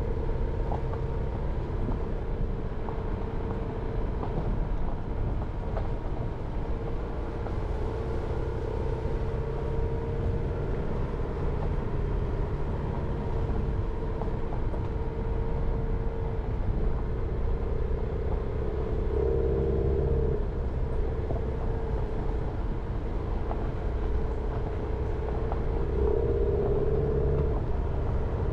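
Jeep Renegade driving along, its engine and tyre noise making a steady low drone with a hum that swells briefly twice.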